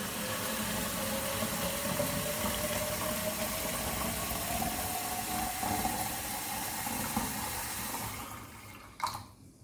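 Water running into a plastic bottle, the filling note rising steadily in pitch as the bottle fills. The flow fades out about eight seconds in, followed by a short knock.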